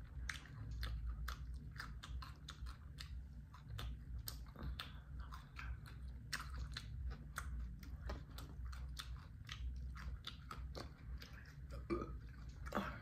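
A person chewing a mouthful of lettuce taco wrap close to the microphone: an irregular run of crisp crunches and wet mouth clicks.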